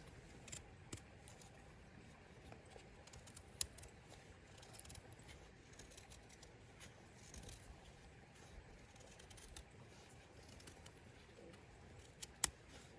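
A few scattered sharp clicks or snaps over a faint low rumble, two of them close together near the end.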